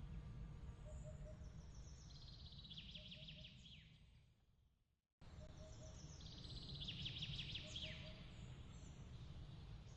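Looped ambience of a small songbird's fast trill that slides downward, with soft short chirps over a steady low background noise. About halfway it fades to silence and cuts straight back in, and the same birdsong repeats.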